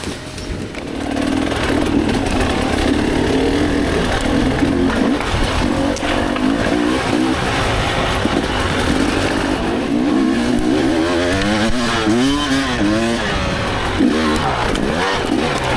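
Dirt bike engine revving up and down repeatedly as the throttle is worked, with quick rising and falling swings in pitch toward the end.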